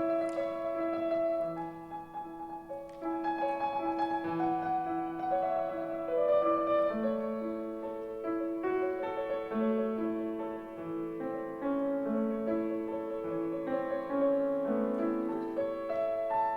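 Solo piano playing a classical piece: a steady pattern of repeated middle and low notes with a melody moving above it.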